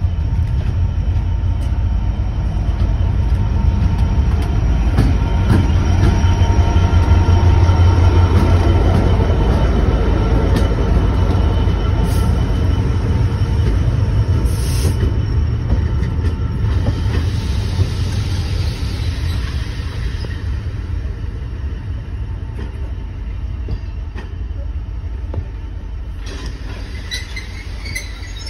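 A heritage train running on the rails: a heavy low rumble that builds over the first eight seconds or so, then slowly fades. Thin steady squealing tones from the wheels run over it, and higher squeals come in near the end.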